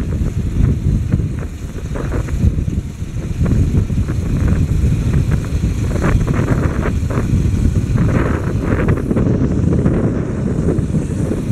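Wind buffeting the microphone on a moving motorcycle, a steady low rumble with the motorcycle's engine running underneath.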